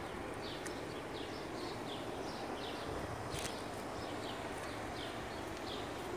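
A bird chirping over and over in short falling notes, two or three a second, over a steady outdoor background, with a couple of faint sharp clicks.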